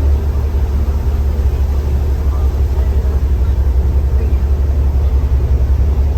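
Steady low drone of a ferry's diesel engine, heard on board while under way, with a noisy wash of water and wind over it.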